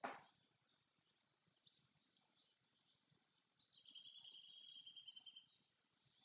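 Faint forest birdsong: scattered high chirps, with a rapid trill lasting about two seconds a little past the middle. A brief sudden sound right at the start.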